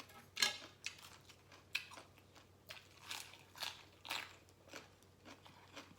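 A person chewing a mouthful of crunchy papaya salad and raw vegetables, with irregular crisp crunches a few times a second.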